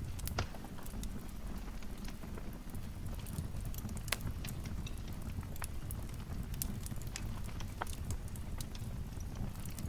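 Wood fire crackling in a fireplace: frequent irregular sharp snaps and pops over a steady low rumble of the flames.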